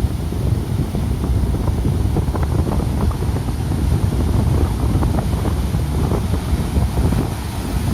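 Strong wind buffeting the microphone in a constant low rumble over the wash of heavy surf, on a rough sea ahead of an approaching typhoon.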